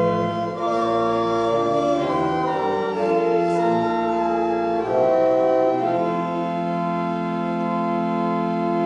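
Organ playing slow sustained chords that change every second or so, then settling on a long held chord about six seconds in.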